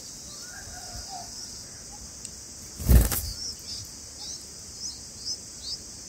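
A steady high insect drone, with one loud wing-flutter thump about three seconds in as the adult bulbul moves from the nest rim to a perch above it. After that come short high chirps about twice a second from the begging nestlings.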